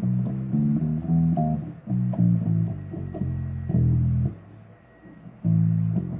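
Electric bass guitar played as a riff of plucked notes, with a short break about four and a half seconds in before a held note.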